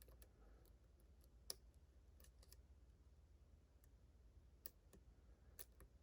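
Faint, scattered clicks of a pick and tension wrench in a Ruko 600 lock, probing the gin-milled pins for the binding ones. About six separate ticks, with near silence between them.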